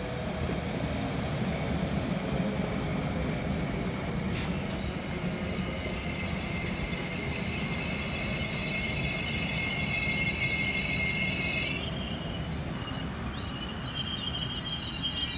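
Northern Class 331 electric multiple unit at the platform, a steady low rumble with level high-pitched whines. The whines cut off about twelve seconds in, and a single higher tone starts a moment later.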